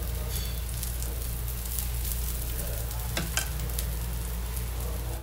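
Aloo paratha frying in ghee on a flat iron tawa: a steady sizzle with small crackles over a low hum. A couple of light metal clicks come a little after three seconds in, as the spatula meets the pan.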